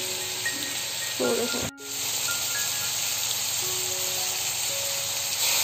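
Chicken pieces frying in oil in a steel wok, a steady sizzle, with faint background music of held notes over it. The sound drops out briefly about a second and a half in.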